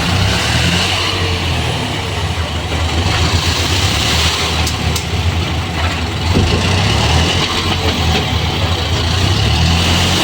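Isuzu dump truck's diesel engine running steadily, with a couple of faint clicks about five seconds in.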